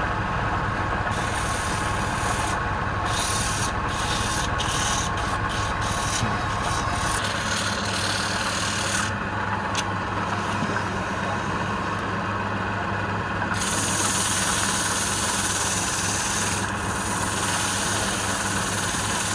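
Wood lathe running with a steady hum while something is held against the spinning wood, making a rubbing, sanding-like noise that comes and goes in stretches.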